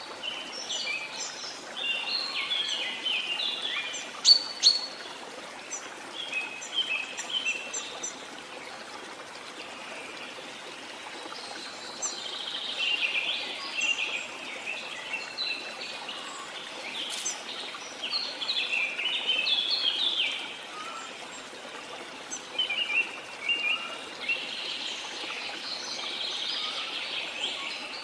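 Many birds chirping and singing in quick, overlapping clusters of short high calls, over a steady hiss of running water.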